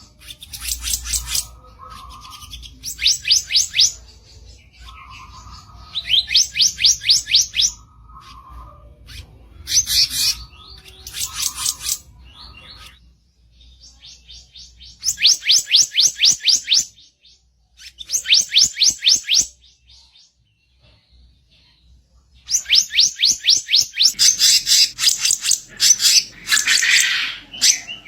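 Kicap ranting songbird singing its harsh song: repeated phrases of fast, evenly pulsed high notes, each about a second or two long with short pauses between, several of the early ones led by a lower buzzy note.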